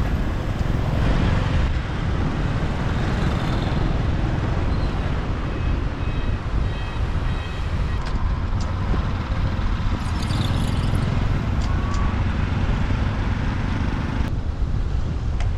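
Road and traffic noise from riding a motorbike through city streets: engines and passing vehicles under a steady, dense low noise.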